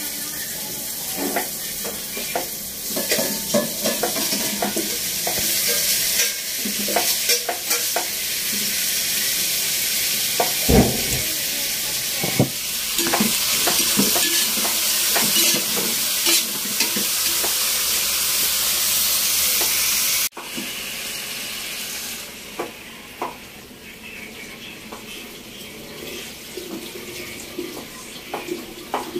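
Sautéing in a metal pot on a gas burner: a steady sizzle with scraping knocks and clinks of a utensil against the pot as grilled chicken is stirred in. About two-thirds of the way through the sound cuts off suddenly to a quieter background with occasional clicks.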